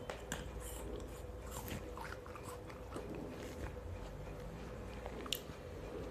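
Close-miked mouth sounds of a person eating fruit: irregular wet bites and chewing with scattered crisp clicks, and one sharper click about five seconds in.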